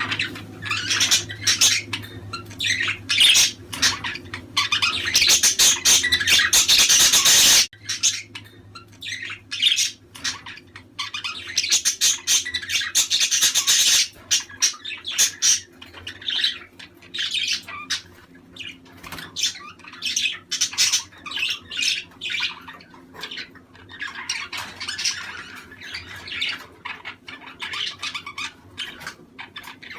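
A flock of budgerigars chattering, chirping and squawking nonstop. A loud, crowded stretch of calls cuts off abruptly about eight seconds in, and another busy burst follows a few seconds later.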